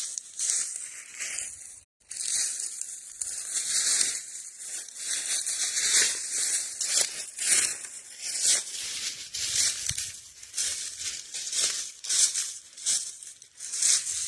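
Footsteps crunching through dry fallen leaves at a steady walking pace, about one step every half to three-quarters of a second. The sound cuts out completely for a moment about two seconds in.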